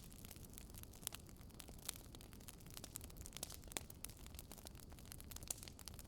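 Wood fire crackling: irregular small pops and snaps, several a second, over a soft low rush of flame.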